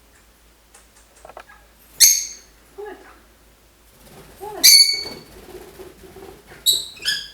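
Lovebirds giving short, shrill chirps: single calls about two seconds in and nearly five seconds in, then two quick calls near the end.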